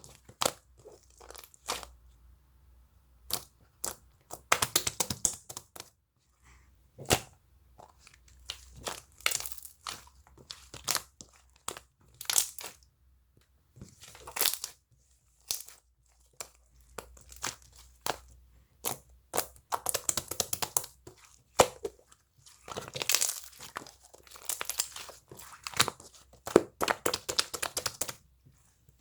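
Slime being squeezed, stretched and pressed by hand, giving irregular sharp clicks and pops that come in dense clusters.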